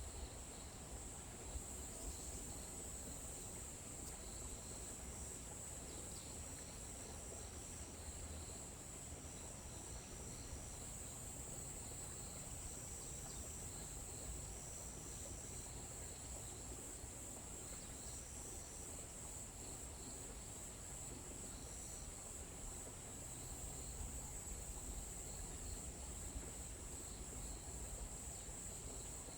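Forest ambience with a steady, high-pitched chorus of insects such as crickets, over a low rumble. Short higher calls of about a second each repeat every couple of seconds through the first two-thirds.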